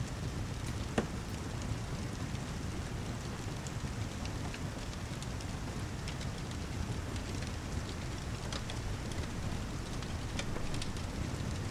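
Steady rain with a low rumble, mixed with a fireplace crackling: scattered sharp pops, the loudest about a second in.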